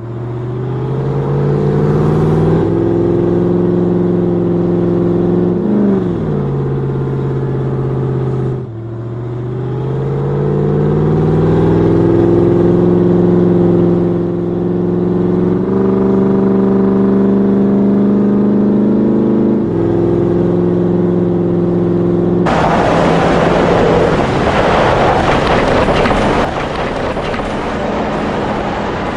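Vehicle engine running under load, its pitch climbing and then holding, with drops as it shifts gears and a sharp cut about nine seconds in. About 22 seconds in it gives way to a loud rushing noise.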